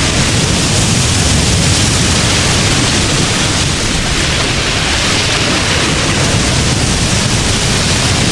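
Steady, loud rushing noise with no separate events.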